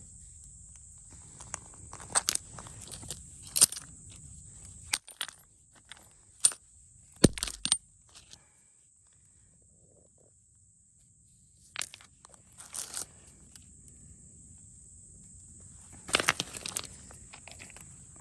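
Footsteps crunching on creek gravel and loose chert stones clicking together, in scattered sharp crunches and clicks with a quieter pause partway through, over a steady high hiss.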